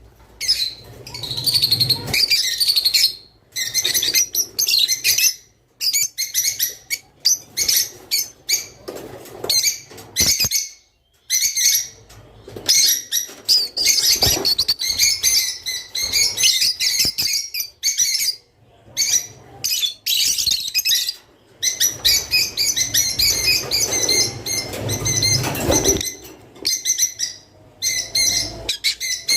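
A group of rosy-faced lovebirds chirping rapidly and continuously, with brief pauses, and wings fluttering at times. This is the calling of birds in breeding condition.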